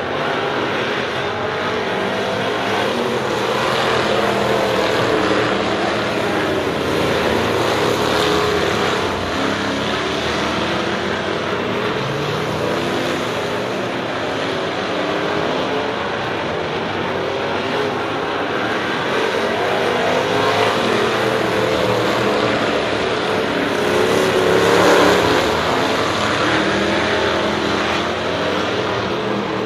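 Several race cars' engines running together around the track. The engine pitch rises and falls as cars speed up and lift, and the sound swells as the pack passes, loudest about 25 seconds in.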